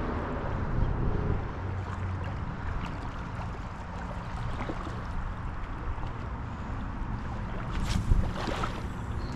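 Outdoor river ambience of flowing water and wind rumbling on the microphone, with a few small knocks and a brief louder rush about eight seconds in.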